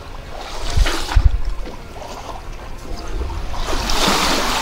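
Water lapping and trickling along a sailing yacht's hull on a calm sea. A couple of low knocks come about a second in, and the water swells to a louder rush near the end.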